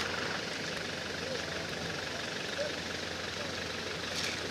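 A vehicle engine idling, a steady noise with a low hum and a few sharp clicks near the end.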